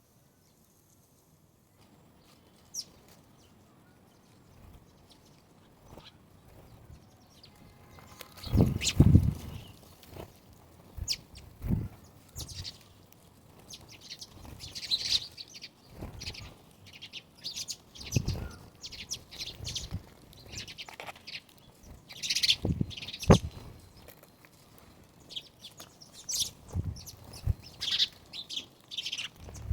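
Birds chirping in short scattered calls, with wing flaps and soft low thuds now and then. It is quiet at first, and the calls and flaps build from about eight seconds in.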